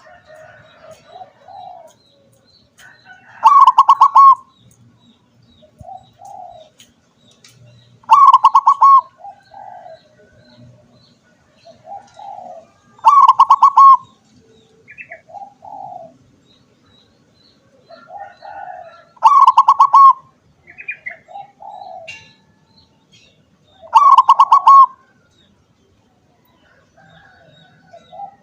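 Zebra dove (perkutut) singing: about five loud, rapidly pulsed trilling coo phrases, each about a second long and roughly five seconds apart, with softer, lower coo notes between them.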